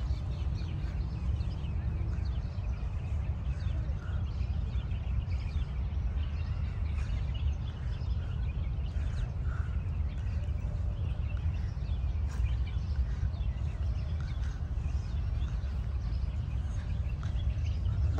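Birds chirping now and then, in short scattered calls over a steady low rumble.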